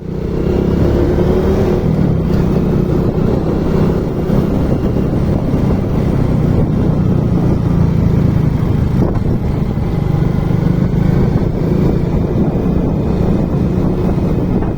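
Motorcycle engine running at a steady speed while riding, a continuous low hum under rushing noise.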